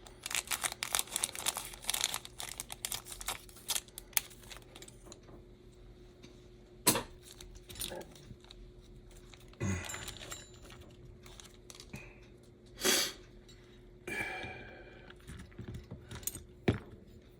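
A small sealed plastic parts package being torn and crinkled open: dense crackling for the first few seconds, then scattered single clicks and taps as it is handled.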